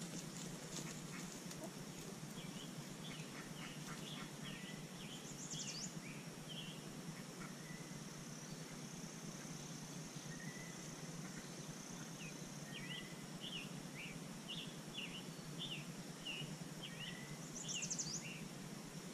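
Small birds chirping: quick runs of short, high notes, one about three seconds in and another past halfway, with a couple of brief higher sweeps, over a steady low background hum.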